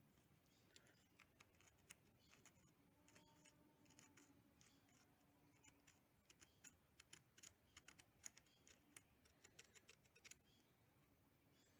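A screwdriver tip scraping hard residue off a motorcycle battery terminal: faint, irregular scratches and clicks that come thicker about halfway through.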